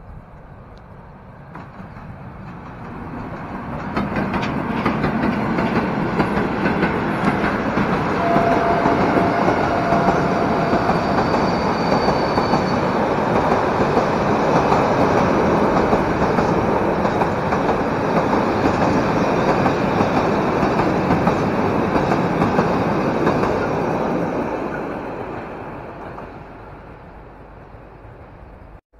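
A train passing by: its noise swells over a couple of seconds, holds loud and steady for about twenty seconds, then fades away before cutting off abruptly near the end.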